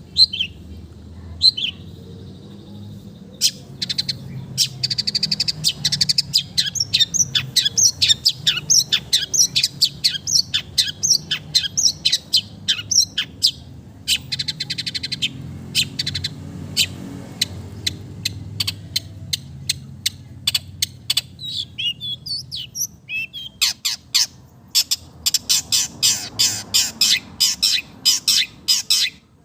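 Madura long-tailed shrike (cendet) singing: a fast, nearly continuous chatter of short sharp notes with buzzy rattling runs, easing off briefly about two-thirds of the way through before a dense burst near the end.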